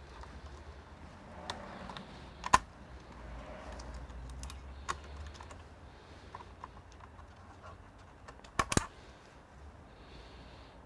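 Scattered light clicks and taps, with one sharp click about two and a half seconds in and a quick cluster of clicks near the end, over a faint low hum.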